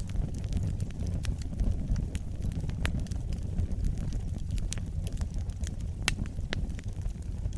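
Wood fire burning with a steady low rumble of flames and frequent irregular sharp crackles and pops, one louder pop about six seconds in.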